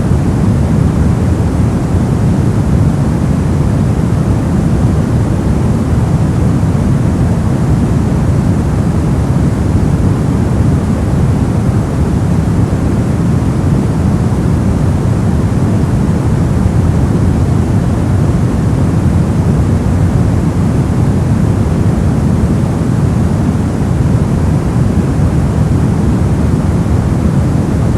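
Steady, unbroken masking noise for sleep, deep in tone, with most of its weight low down and only a thin hiss higher up.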